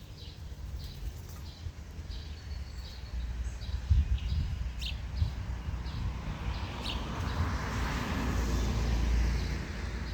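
Small songbirds chirping in short, repeated notes over a low outdoor rumble; about two-thirds of the way through, a wash of noise swells up and eases off again, like a vehicle passing.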